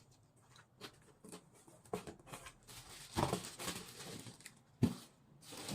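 Unpacking and handling noises: scattered light clicks and rustling of packaging, a longer rustle about three seconds in, and a sharp knock near the end.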